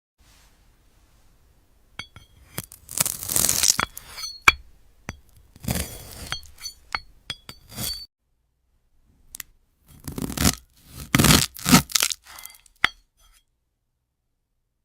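A knife slicing through a brittle glass-like fruit: crackling, scraping and sharp clinking snaps in two bouts of a few seconds each, with a short pause between.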